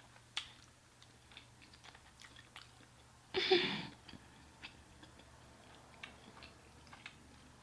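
Quiet chewing, with scattered soft mouth clicks, and one brief louder sound about three and a half seconds in.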